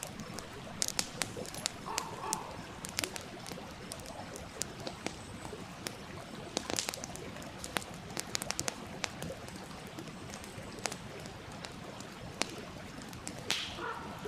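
Wood fire crackling, with irregular sharp pops and snaps, a few louder ones, over the steady rush of a stream.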